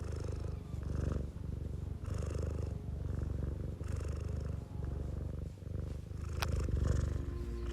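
Domestic cat purring close to the microphone: a steady low rumble that swells and breaks with each breath in and out, roughly once a second. A brief faint click sounds about six and a half seconds in.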